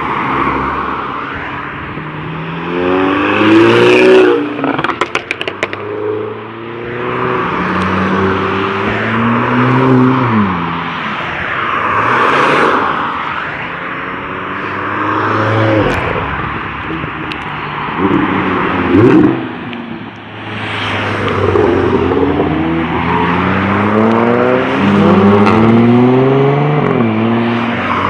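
Several performance cars accelerating hard past one after another, their engine notes rising through the revs, dropping at gear changes and climbing again. A burst of rapid crackling comes about five seconds in.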